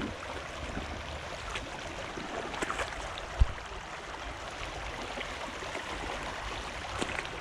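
Creek water flowing steadily, with a single short low thump about three and a half seconds in and a few faint ticks just before it.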